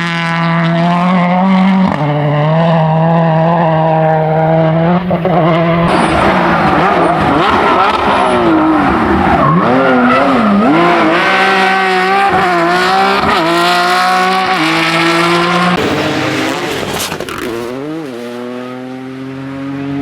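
Rally car engines at full throttle, the revs climbing and dropping through gear changes and braking, with tyre squeal as the cars slide. Near the end it goes quieter before an engine revs up quickly again.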